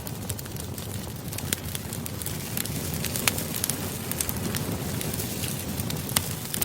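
Campfire crackling: a steady hiss of burning wood with frequent sharp pops and snaps, the loudest about three seconds in and again near the end.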